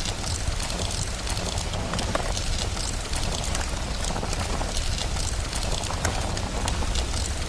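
Steady rain mixed with a crackling fire: an even hiss under a constant low rumble, with many small pops and crackles scattered throughout.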